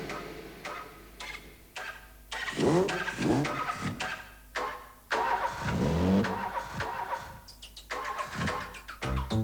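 Car engine starting and revving in short rising and falling bursts, chopped off abruptly several times, as a sampled sound effect. A rhythmic music pattern begins near the end.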